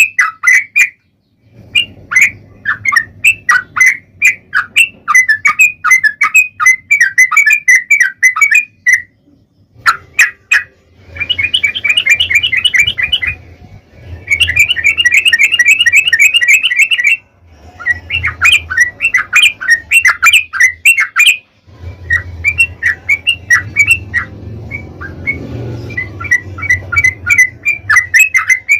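Trucukan (yellow-vented bulbul) singing its long, rapid-fire chattering song: quick runs of short chirps in several long bursts, separated by brief pauses. A low hum runs under many of the bursts.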